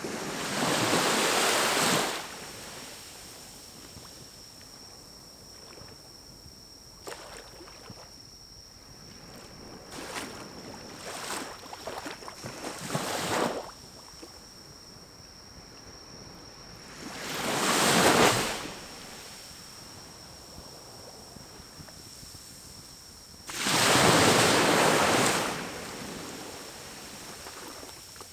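Pine cones burning in a small wood-burning stove, with scattered crackles and pops, broken three times by a rush of air lasting about two seconds each: at the start, about two-thirds of the way in, and near the end.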